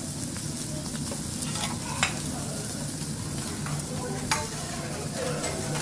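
Food sizzling on a teppanyaki griddle, a steady frying hiss over a low hum, broken by two sharp clicks, about two and four seconds in.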